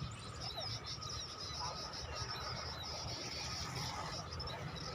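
A flock of small birds chirping: many short, high chirps overlapping, over a low, steady rumble.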